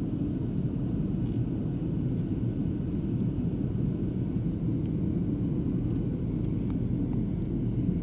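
Steady low drone inside an airliner's passenger cabin in cruise flight: jet engines and rushing airflow, with no change in pitch or level.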